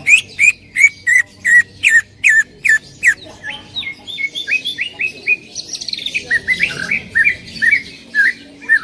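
Cucak ijo (green leafbird) singing loud, sharp, repeated notes, about three a second for the first three seconds, then a quicker run of softer notes and a further string of notes near the end.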